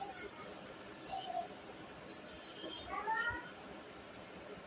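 Caged pet birds chirping: two short, sharp, high chirps at the start and three more in a quick run about two seconds in, with a lower rising call about three seconds in.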